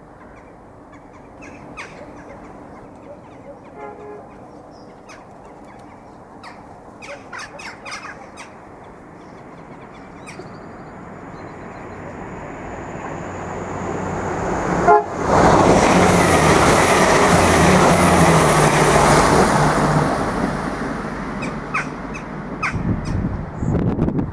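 Irish Rail 22000 Class diesel multiple unit passing through the station without stopping. Its rumble builds slowly as it approaches, turns into a loud rush of engines and wheels about fifteen seconds in, then fades as it runs away, with a few sharp clicks near the end.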